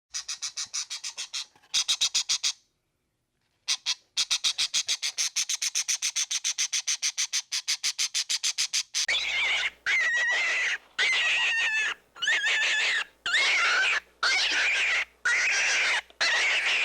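Animal calls: first a fast, even pulsed trill of about seven or eight pulses a second, then a run of separate wavering calls, each about a second long.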